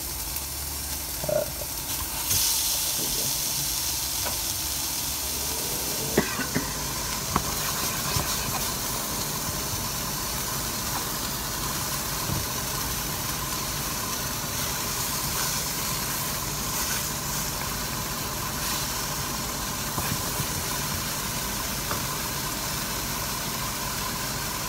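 Sliced peppers and chicken frying in a pan: a steady sizzling hiss that swells about two seconds in, with a few light knocks around the middle.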